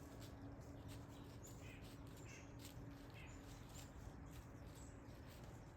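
Faint bird calls, three short calls in quick succession, over quiet outdoor ambience with a faint steady hum.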